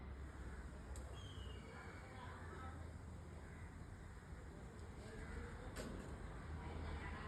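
Faint, harsh bird calls over a steady low rumble, with a couple of sharp clicks.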